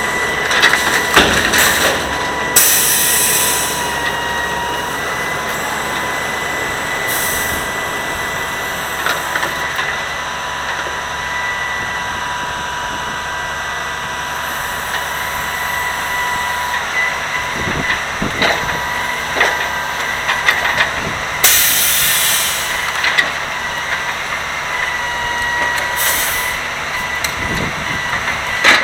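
Grapple truck running with a steady high whine, broken by several bursts of hissing and a few sharp knocks.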